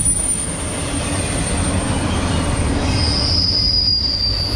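Empty intermodal well cars of a long freight train rolling past: a steady low rumble of wheels on rail with a thin, high-pitched wheel squeal, and a second, lower squeal joining about three seconds in and slowly falling in pitch.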